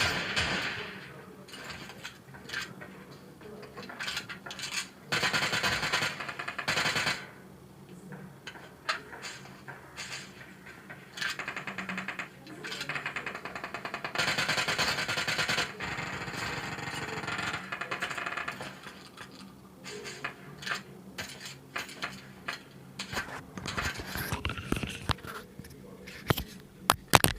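Video game sound effects, most likely from a shooter game: irregular bursts of noise and sharp clicks, with a quick run of clicks near the end.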